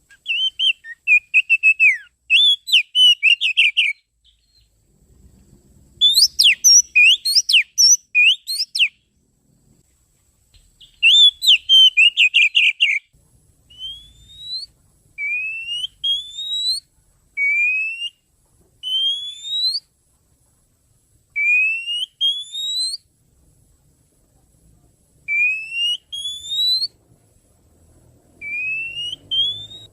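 Oriental magpie-robin (kacer) song played as a bird-lure recording: quick, varied whistled phrases for the first half, then a run of single rising whistles, each about a second long, every two to three seconds.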